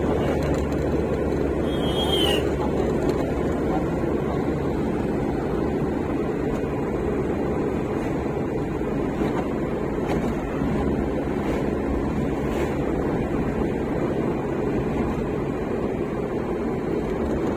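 Steady, even rumble of a moving vehicle, with a brief squeak about two seconds in.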